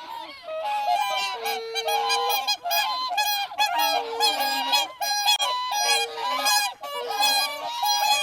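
Several geese honking over and over, their calls overlapping at a few different pitches.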